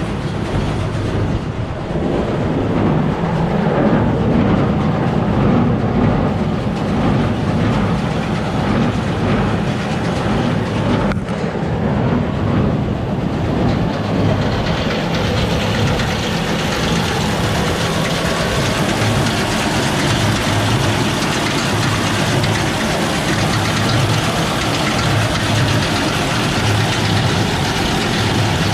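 New Holland BB940 large square baler running empty, driven by the tractor's PTO, its flywheel and plunger going in a steady, repeating mechanical rhythm over the tractor engine. There is a single sharp click about 11 seconds in, and the sound gets brighter from about 14 seconds on.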